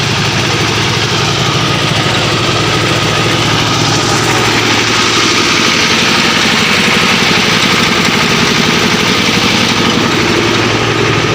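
An engine idling steadily and loudly.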